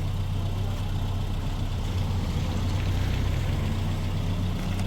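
An engine running steadily at idle: a low, even hum whose pitch rises slightly near the end.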